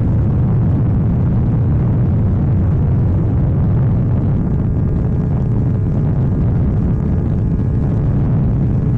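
KTM Duke 790 parallel-twin with an Arrow full exhaust, heard riding along as a loud, steady low rumble with no clear engine pitch.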